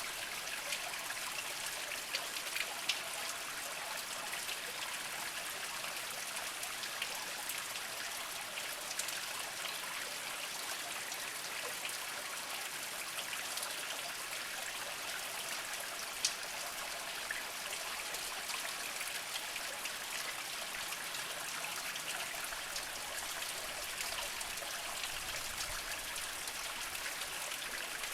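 Small mountain spring trickling over mossy rocks: a steady light splashing and babbling, with scattered sharper drips, one standing out a little past halfway.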